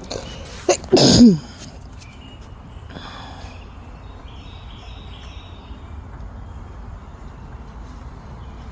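A person's short, loud vocal outburst about a second in, sliding down in pitch, followed by a fainter breathy sound around three seconds in.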